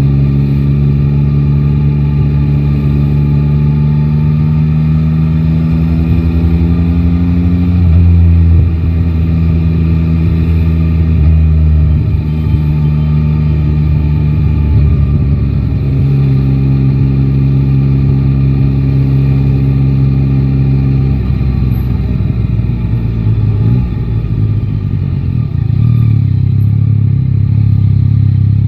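Yamaha Tracer 9 GT's three-cylinder engine running under way in city traffic, heard from the rider's position with wind rush. Its pitch climbs slowly through the first eight seconds, holds steady, and drops as the bike slows after about twenty seconds, running low near the end.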